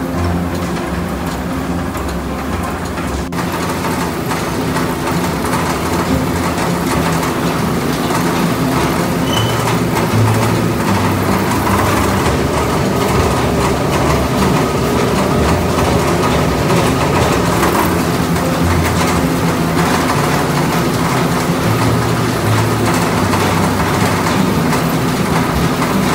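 An engine running steadily at a constant pitch, with a deep hum.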